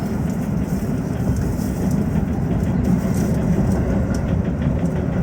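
Tokyo Metro 15000 series train running steadily through the underground section, heard from inside the leading car: a continuous rumble of wheels on rails, with a few light clicks in the second half.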